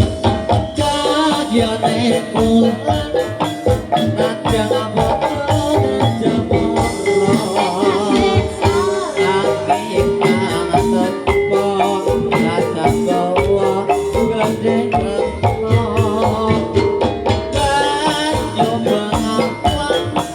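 Jaranan dangdut music played live: drums and rattling percussion keep a steady beat under a sustained, wavering melody line.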